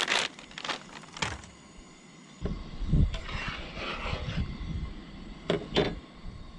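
Camp cookware being handled while pasta cooks: a series of sharp clinks and knocks, a dull thump about two and a half seconds in followed by a brief hiss, and two quick clicks close together near the end.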